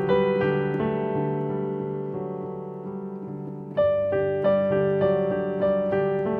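Piano playing a calm, flowing left-hand pattern. A few notes are struck near the start and left to ring and fade, then a new group of notes comes in about four seconds in.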